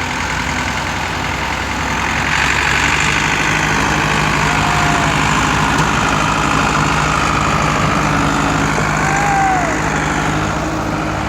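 Tractor engine running hard, its revs rising about two seconds in and easing back near the end, as one tractor strains to pull a loaded tractor out of mud.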